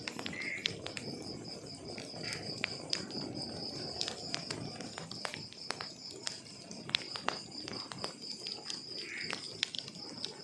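Wood fire crackling, with scattered sharp pops over a low, steady rustle of burning logs. A cricket chirps steadily and rapidly behind it, and a brief higher call comes once near the end.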